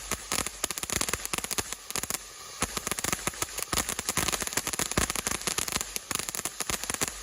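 Freedom Fireworks Whimsy ground fountain firing its crackle effect: a dense, rapid stream of sharp cracks, with a short hissing lull about two seconds in. This is typical of the fountain's crackle finale.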